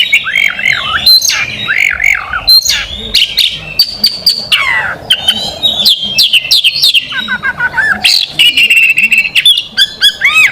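Oriental magpie-robin (kacer) singing a loud, varied song of quick whistled and buzzy phrases with sharp clicks, including a long falling glide about five seconds in.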